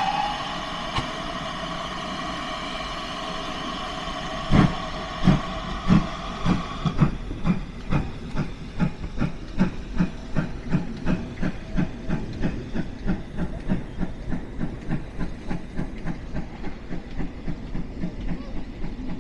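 Steam locomotive pulling away: a steady hiss of steam, then about four and a half seconds in heavy exhaust chuffs begin, slow at first and quickening to about three a second. The hiss stops about seven seconds in.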